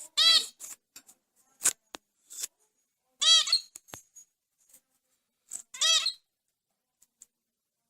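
Bulbul calling: three short, loud, arched notes a few seconds apart, with faint clicks and short chirps between them.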